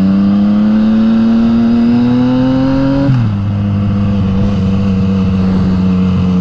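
Yamaha MT-09's three-cylinder engine through an Akrapovič exhaust, under way. Its note climbs steadily under throttle, drops sharply about three seconds in, then holds a steady pitch, with wind rushing over the microphone throughout.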